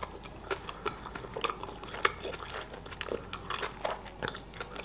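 A person chewing a mouthful of beef burger with a soft bun, close to the microphone: a stream of small wet clicks and squelches from the mouth, several a second and irregular.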